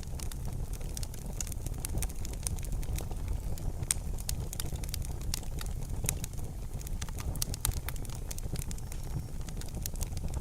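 Wood fire crackling in a fireplace: many quick, sharp pops and snaps, several a second, over a steady low rumble of burning.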